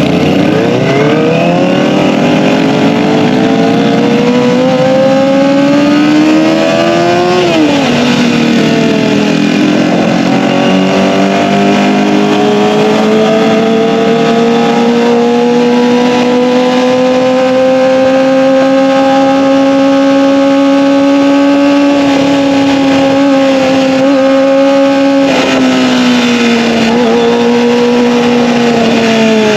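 Kawasaki ZX-25R inline-four with an Akrapovic Evolution exhaust, revving up under acceleration. The pitch drops sharply at an upshift about seven seconds in, then the engine holds steady high revs before easing off in falling steps near the end.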